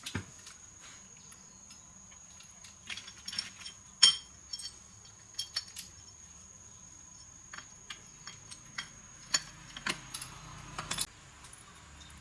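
Small metal parts and tools clinking and being handled, with a sharp metallic clank about four seconds in that rings briefly and a quick flurry of clinks near the end.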